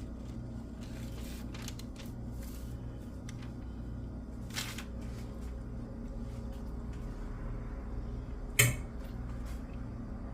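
Light clicks and taps of kitchen handling, with one sharper knock about eight and a half seconds in, over a steady low hum.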